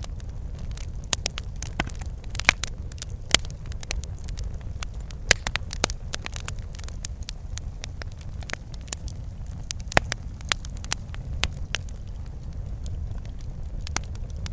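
Wood fire burning in a fireplace: a steady low rumble of flame with irregular sharp crackles and pops, a few louder pops standing out.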